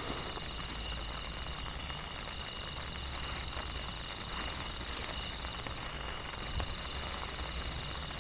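Steady rain falling in a forest, with a constant high insect drone over it.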